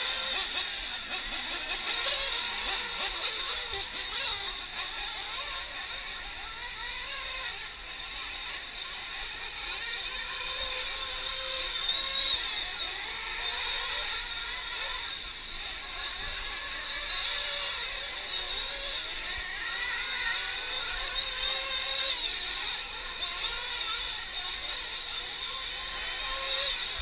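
Several 1/8-scale nitro RC truck engines running at high revs together, a high-pitched whine whose pitch keeps rising and falling as the trucks accelerate and brake around the track.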